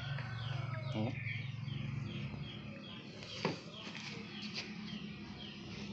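A bird chirps over and over in short falling notes, about two a second, over a steady low hum. A sharp click comes about three and a half seconds in.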